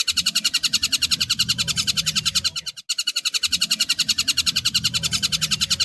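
Tengkek buto calling: a fast, even chatter of about ten sharp notes a second, in long runs broken by a short pause about three seconds in.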